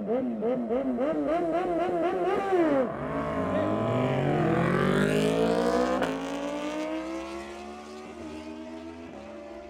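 Superbike engines at a drag strip start line, blipped in quick throttle bursts about three a second. About three seconds in they launch, the engine note climbing in steps through the gears, then fading as the bikes pull away down the strip.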